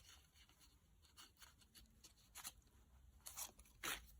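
Soft rustling and crinkling of paper as the pages and tucked-in papers of a handmade mini journal are handled, with a couple of louder rustles near the end.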